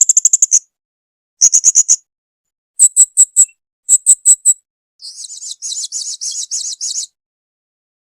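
Blue-crowned hanging parrot (serindit) calling: short series of rapid, very high-pitched chirps repeated about once a second, then a longer, faster twittering run that stops about seven seconds in.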